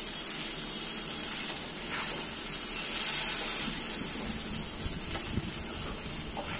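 Poha sizzling in a steel kadai as it is stirred with a spoon: a steady hiss that swells a little about three seconds in, with a few faint clicks of the spoon against the pan.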